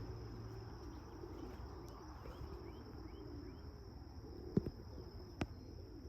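Outdoor ambience of crickets or other insects trilling steadily, with a few faint short bird chirps and two sharp clicks near the end.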